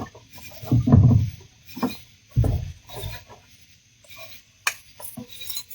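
Kayak hull and paddle knocking and thudding in water too shallow for the kayak, with a few sharp clicks. Night insects chirp faintly in the background.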